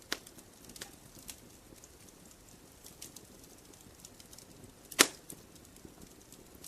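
Wood fire crackling in a fireplace: scattered small snaps over a low steady hiss, with one loud sharp pop about five seconds in.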